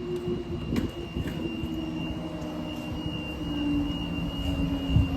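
Diesel train engine droning steadily as the train pulls away past the level crossing, with a steady high-pitched whine above it.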